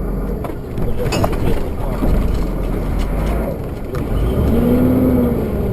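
A motor vehicle running, with a steady low rumble and a few knocks. Near the end a short tone rises and falls.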